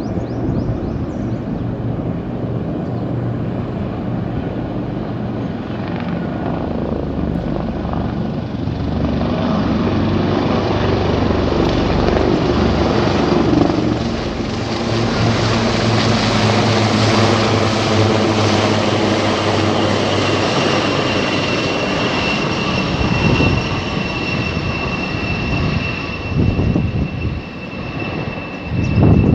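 Helicopter rotor and turbine engine, growing louder through the middle as it flies past. A steady high turbine whine comes in during the last third.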